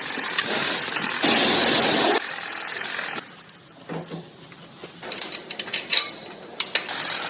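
A loud steady hiss that cuts off suddenly about three seconds in, followed by quieter scattered clicks and light metallic taps of hand work on engine parts; the hiss returns near the end.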